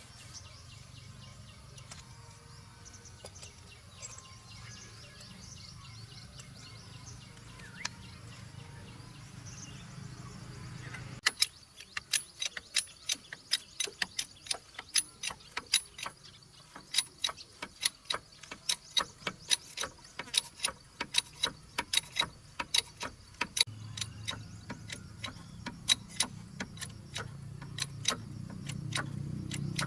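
A run of sharp clicks or knocks, roughly two a second and irregular, starting about a third of the way in, over a low steady hum.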